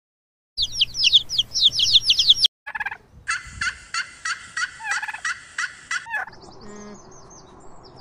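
Domestic chicks peeping in a fast run of high, falling chirps, cut off abruptly after about two seconds; then a turkey tom gobbling in a rapid series of calls for about three seconds. A fainter, lower animal sound follows near the end.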